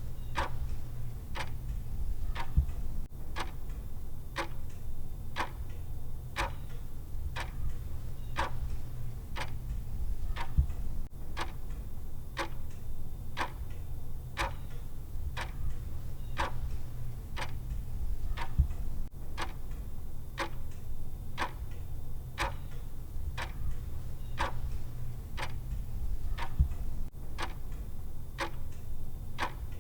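Clock ticking at a steady, even pace, over a constant low hum.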